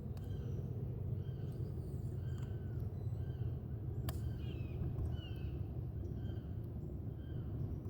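A bird calling over and over in short arched notes, about one to two a second, over a steady low rumble. A single sharp click about four seconds in.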